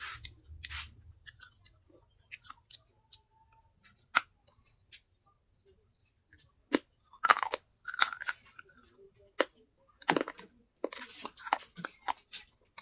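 Pieces of baked clay from a clay handi (pot) being bitten and chewed: irregular sharp cracks and crunches, sparse at first and coming thicker from about seven seconds in.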